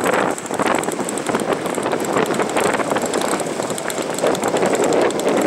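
Strong gusty wind buffeting the microphone, a loud rough rushing that swells and dips, with a faint steady high whine above it.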